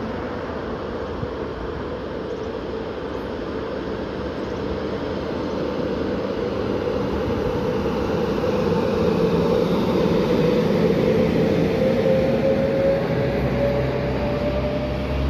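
Electric locomotive hauling passenger coaches approaches and passes close by: steady wheel-and-rail running noise that grows louder through the middle. A whine rises slightly in pitch over the second half, and a heavier low rumble sets in near the end as the coaches roll past.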